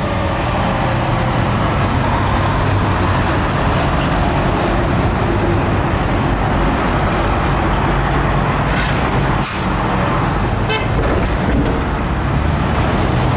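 Fire engine's engine running loud and close with heavy road noise. A short, sharp hiss comes about nine and a half seconds in.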